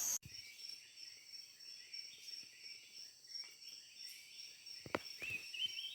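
Faint chorus of tropical forest insects, with steady high-pitched trilling and scattered chirps. There are a couple of soft knocks about five seconds in.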